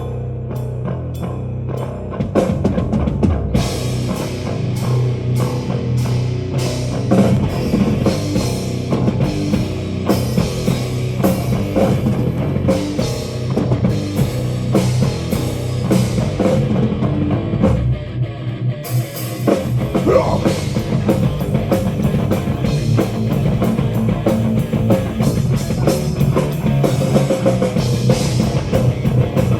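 Live heavy metal band playing an instrumental passage with no vocals: guitars and bass at first, with the drum kit and cymbals coming in about three and a half seconds in. The cymbals drop out briefly about two-thirds of the way through, then the full band comes back.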